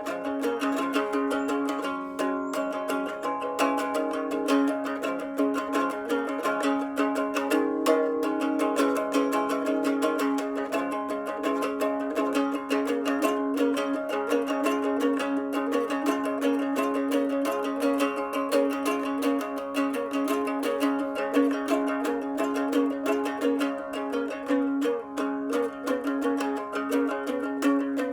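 A Donner three-string plucked instrument playing a boogie: quick picked notes over a steady low drone note.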